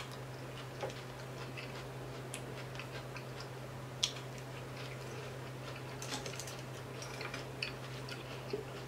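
Quiet close-miked eating sounds: scattered soft clicks of a mouthful of coleslaw being chewed, over a steady low hum.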